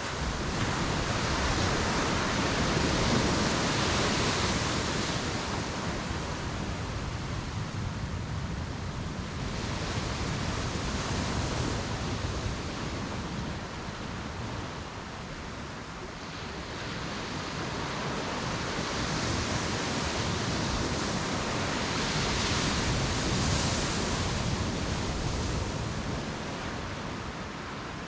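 Ocean waves breaking and washing up on a beach, in slow surges: one builds in the first few seconds, the sound eases off in the middle, and a second long surge comes about two-thirds of the way through.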